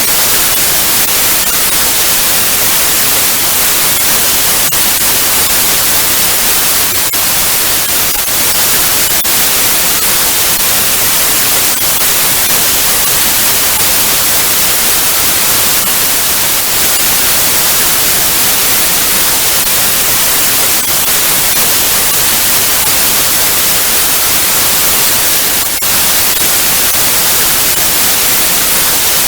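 Loud, steady analogue TV static: an even hiss, brightest in the treble, with faint crackles now and then.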